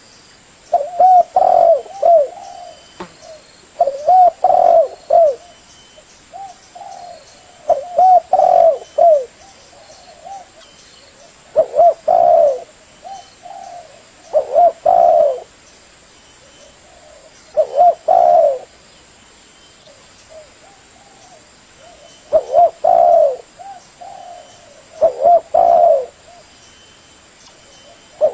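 Spotted dove (tekukur) cooing: repeated phrases of a few hoarse, falling coo notes, a phrase every three to four seconds.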